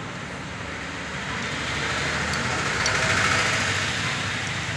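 Motor-vehicle noise that swells to a peak a few seconds in and then eases off, like a vehicle going past, over a steady low hum.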